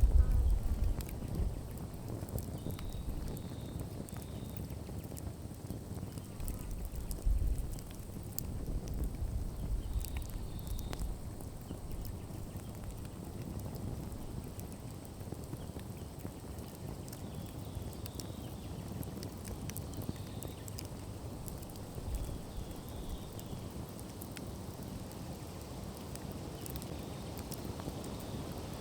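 Bonfire burning: scattered crackles and pops of burning wood over a steady low rumble, with faint high chirps now and then.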